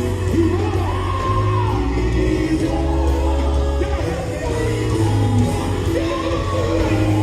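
Live gospel music: a group singing over a band with heavy, steady bass notes, while a lead voice rises into high, shouted held lines about a second in and again near the end.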